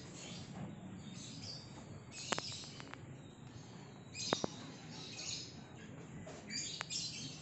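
Birds chirping in repeated short high bursts, with a few sharp clicks; the loudest clicks come about two and four seconds in.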